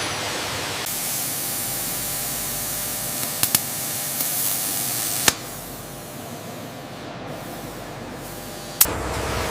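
Steady hiss of spraying or escaping air over machine-shop background noise, lasting about four seconds and stopping abruptly with a click. A quieter background follows, and another sharp click near the end brings in a lower rumble.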